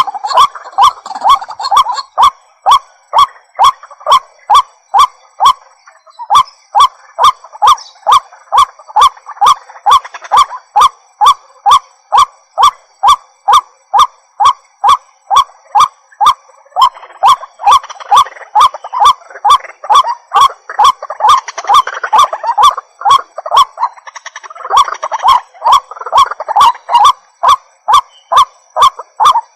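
White-breasted waterhen calling: a long run of loud, harsh croaking notes repeated about three times a second. For stretches in the second half the calls thicken, with more notes overlapping.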